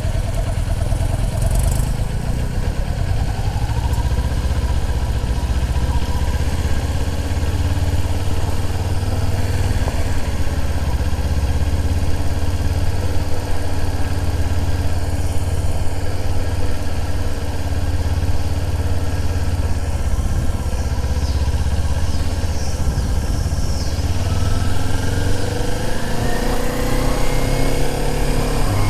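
Motorcycle running while being ridden, with heavy low rumble on the microphone. An engine note rises in pitch near the end, as the bike or a passing vehicle accelerates.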